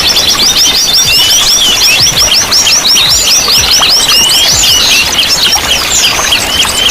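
Small songbirds singing in a fast, continuous twitter of high chirps, about seven or eight quick sweeping notes a second, with other notes overlapping.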